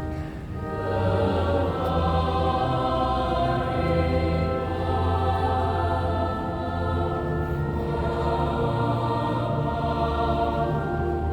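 A choir singing in long held chords.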